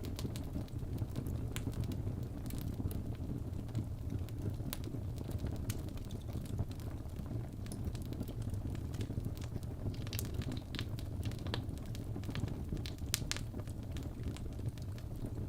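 Logs burning in a fireplace: a steady low rumble of flames with irregular sharp crackles and pops from the wood, which come thicker about ten seconds in.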